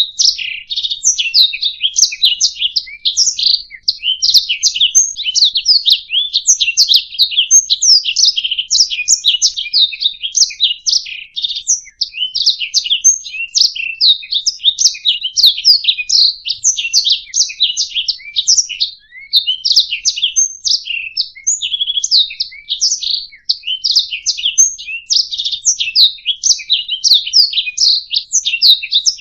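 Domestic canary singing a long, continuous song of rapid chirps and trills with no pauses.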